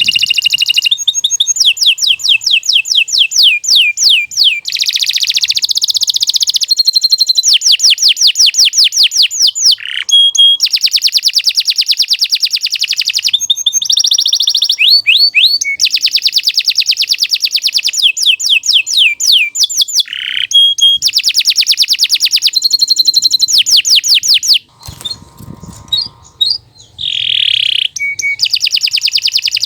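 Domestic canary singing a long, unbroken song of fast, high-pitched trills and rolls, each phrase a rapid run of repeated notes, with a brief pause about 25 seconds in.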